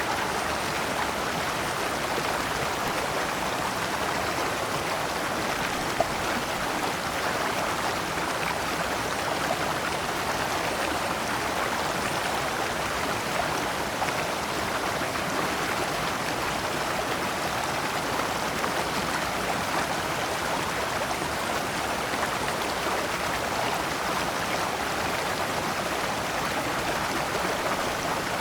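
Shallow rocky stream flowing and splashing over stones in small cascades: a steady, even rush of water, with one brief click about six seconds in.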